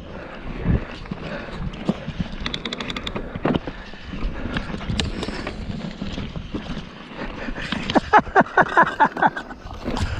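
Mountain bike rolling over a rough, rocky trail, its frame and parts clattering and knocking, with a quick run of louder rattles near the end.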